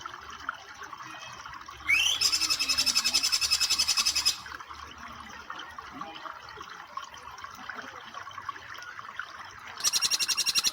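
Jingjing petulak (flycatcher-shrike) calling in fast, evenly repeated high notes, about six a second. One burst comes about two seconds in and opens with a short rising note; another starts near the end. Between the bursts there is only a steady trickle of flowing water.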